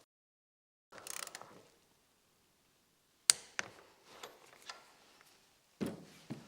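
Torque wrench set to 10 newton metres tightening the front shroud adapter on an air rifle barrel: scattered metal clicks and light ticks, with one sharp click about three seconds in and a few more near the end.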